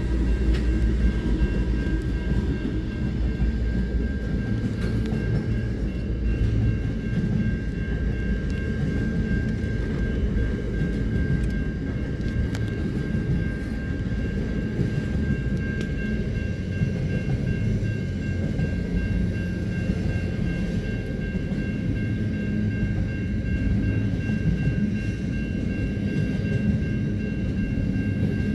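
Diesel-hauled intermodal freight train passing close by: the locomotive at first, then double-stacked container wagons rolling past with a steady, heavy wheel-on-rail rumble. A level crossing's warning bell rings steadily over it.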